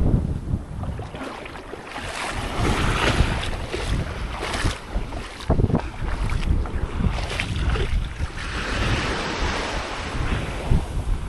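Sea waves washing onto the beach, swelling and falling back a couple of times, with wind buffeting the microphone.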